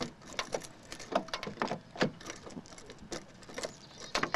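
Irregular sharp clicks and knocks, several a second, with the loudest about a second in, two seconds in and near the end.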